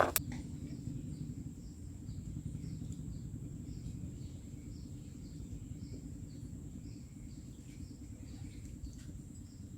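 Outdoor river ambience: a steady low rumble under a steady high-pitched insect drone, with a faint chirp repeating about twice a second.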